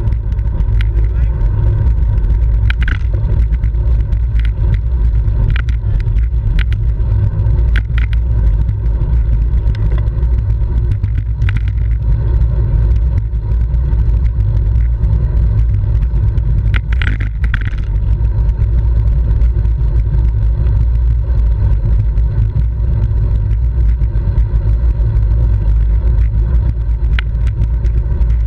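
Wind rushing over the microphone of a bicycle-mounted camera while riding in a road race, a loud, steady low rumble. A few brief higher sounds break through it now and then, most clearly around the middle.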